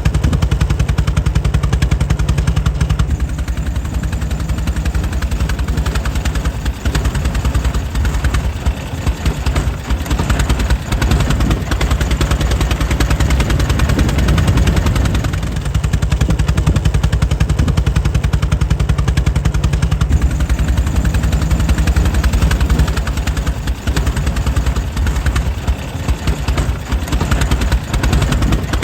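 Air-cooled engine of a 1904 Mitchell running steadily, its firing strokes coming as a rapid, even stream of sharp pops.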